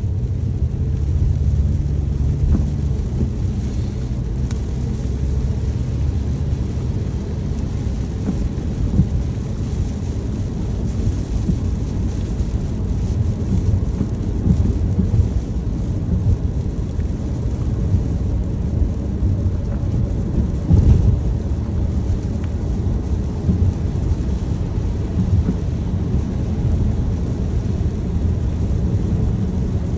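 Steady low rumble of a car driving in the rain, heard from inside the cabin: road and engine noise with rain on the car.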